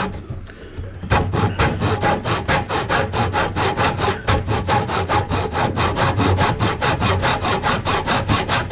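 Handsaw cutting through wood in quick, even strokes, about four or five a second. There is a brief pause of about a second at the start before the strokes resume.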